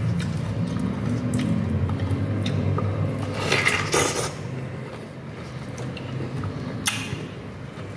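Wet chewing and slurping of juicy fresh pineapple, with a louder wet slurp about three and a half seconds in and a sharp click near the end.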